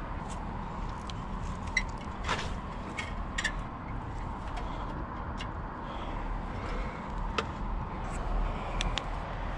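Steady low rumble of outdoor background noise with a faint steady high tone, broken by scattered light clicks and taps.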